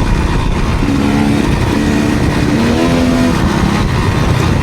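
Enduro dirt bike engine running under way on a trail, its note stepping up and down with the throttle.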